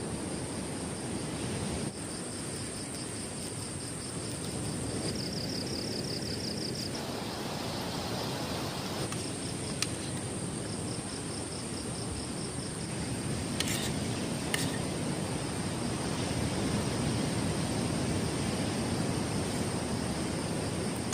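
Steady low rush of heavy rain, wind and surf at night, with insects over it: a constant high buzz and a cricket trilling in quick pulses that stops and starts. A few faint ticks sound around the middle.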